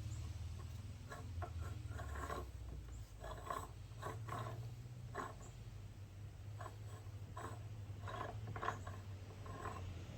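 Metal parts of a Peerless 206 transaxle clicking and clinking in irregular bunches as it is handled and its gears are worked by hand, over a steady low hum.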